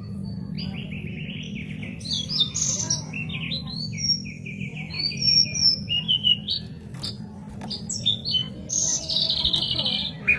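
White-rumped shama (murai batu) singing a varied song of fast repeated notes, trills and clear whistled phrases, over a steady low hum.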